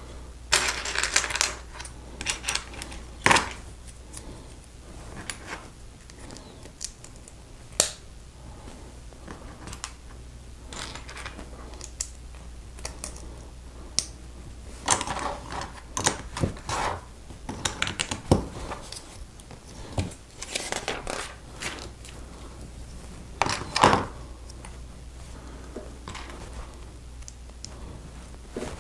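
Plastic Lego bricks clicking and clattering as pieces are picked through and snapped together, with irregular sharp clicks and short rattling bursts.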